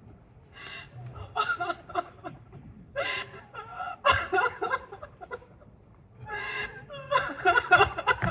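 Several bursts of wordless human vocalizing from the cast, heaviest about a second in, around three to four seconds in, and again near the end.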